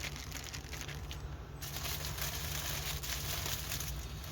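Plastic packaging crinkling and rustling as it is handled, with small irregular clicks.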